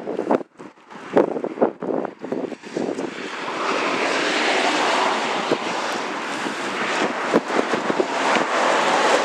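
A few scattered knocks and clicks, then a steady rushing vehicle noise that builds about three seconds in and holds.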